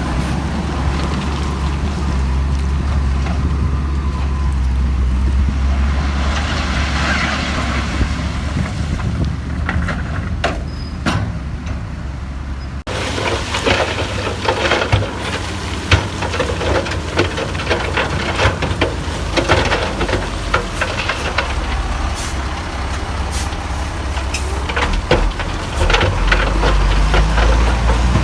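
Heavy diesel earthmoving machinery running, with a steady low engine drone. After an abrupt change about halfway through, many sharp metallic clanks and rattles sound over the engine.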